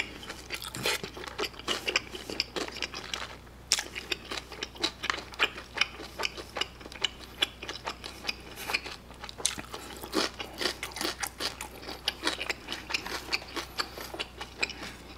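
A person chewing a mouthful of kimchi-pizza-tangsuyuk (fried sweet-and-sour pork under kimchi sauce and melted mozzarella) close to the microphone: a steady run of small, irregular mouth clicks and smacks, with a brief pause just before four seconds in.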